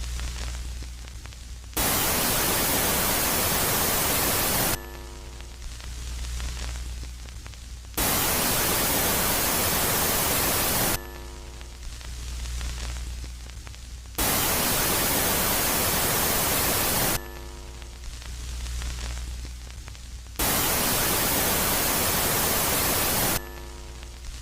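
Space-ambience track of static: loud, even hiss for about three seconds at a time, switching abruptly to quieter stretches with a low hum, four times over. Each quieter stretch opens with a brief cluster of faint tones.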